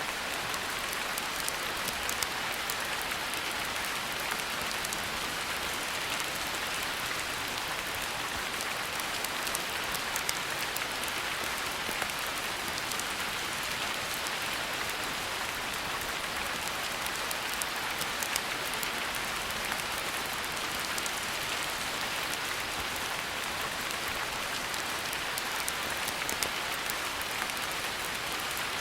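Steady rain falling on a hard surface, with many small sharp ticks scattered through it.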